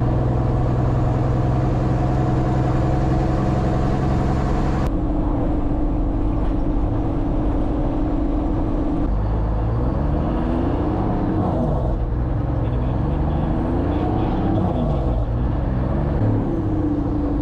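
Mack R model truck's diesel engine pulling a heavy load, running at a steady pitch at first, then rising and falling in pitch several times as it revs up and drops back.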